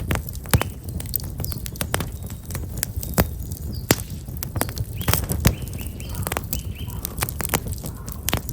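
Black locust firewood burning in an open fire, crackling with frequent sharp pops over a low steady rumble. Small birds chirp briefly about five seconds in and again a little later.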